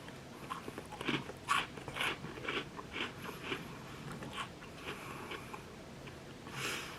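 Someone chewing a crunchy gingerbread cookie: irregular crisp crunches, about one or two a second, that thin out toward the end.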